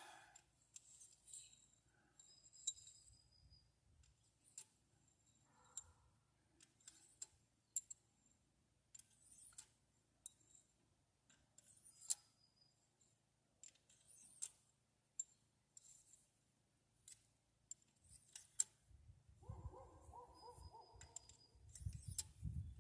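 Faint, scattered metallic clinks and clicks of hand tools and sockets being handled, about one every second or so, with a brief low hum about three-quarters of the way through.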